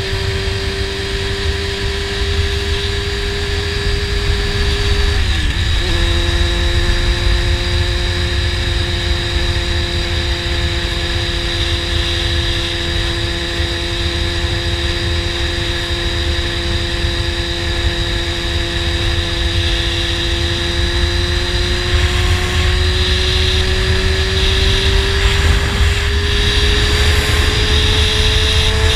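Honda CBR600RR inline-four sport bike with a slip-on exhaust, cruising at steady revs, with heavy wind rushing over the microphone. About five seconds in the engine note dips briefly and settles slightly lower, and near the end the revs climb slowly as the bike speeds up.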